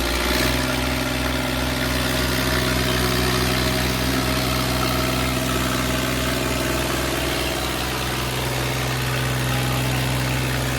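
Tractor engine running steadily at an even speed, without revving.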